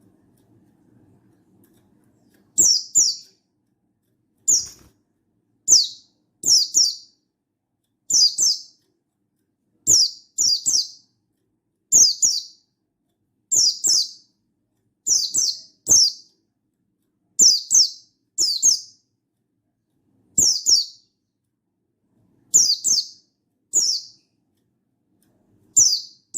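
Buxtoni white-eye (pleci buxtoni) giving short, high calls, mostly in quick pairs, repeated about every one and a half seconds, starting a couple of seconds in.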